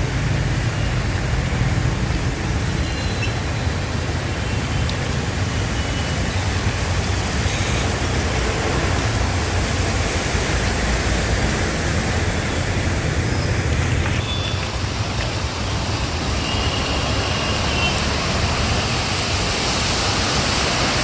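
Steady noise of traffic and water on a rain-flooded city street, under a heavy low rumble. About fourteen seconds in, the sound turns brighter and hissier.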